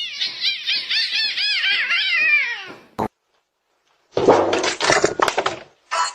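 A pet animal gives a quick run of high-pitched calls, about four a second, each rising and falling in pitch, which stops about three seconds in. After a short silence comes a second and a half of rough, noisy sound.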